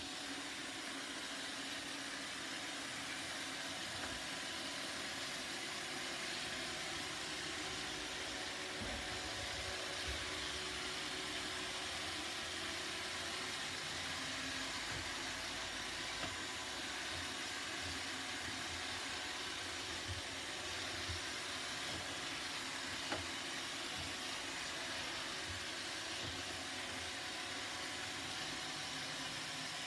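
Roomba robot vacuum running: a steady whir from its suction fan and brush motors, with a few faint knocks scattered through.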